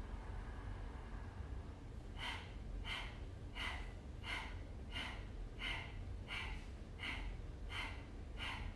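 Kapalabhati breathing: a woman's short, forceful exhales through the nose in a steady rhythm, about ten sharp puffs at roughly one and a half a second, starting about two seconds in, with passive inhales between.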